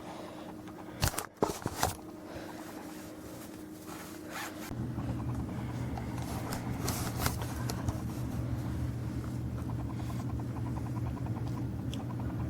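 Towel rubbing and wiping over a dirt bike's surface to dry it, with a few knocks between one and two seconds in. A steady low hum comes on about five seconds in.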